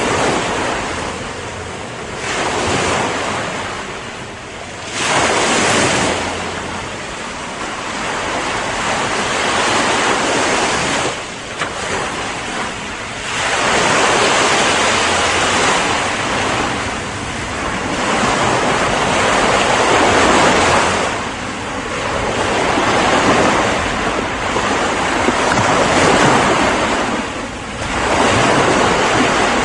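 Ocean surf: waves coming in as a steady hiss that swells and ebbs in surges a few seconds apart.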